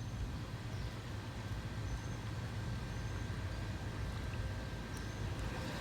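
A steady low mechanical hum under a light background hiss.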